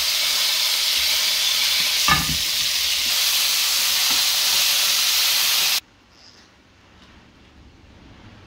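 Pork crackling and rabbit pieces frying hard in hot duck fat and lard in cast-iron pans: a loud steady sizzle, the crackling going off like popcorn, with one knock of metal tongs against the pan about two seconds in. The sizzle cuts off abruptly a little before six seconds in, leaving a much quieter stretch.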